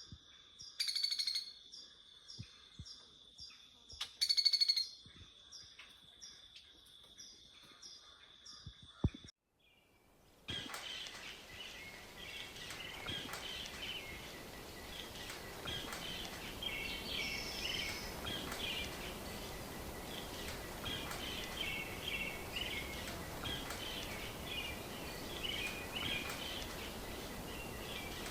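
Wild birds chirping and calling. In the first part two loud short calls stand out over a steady high whine; after a brief drop-out about nine seconds in, a denser chorus of chirps continues over a steady hiss.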